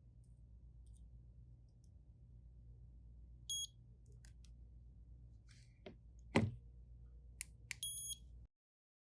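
Two short, high-pitched electronic beeps from a repair-bench device, about four seconds apart. Small clicks and taps of handling on the bench come between them, with one louder tap about six seconds in, over a low steady hum.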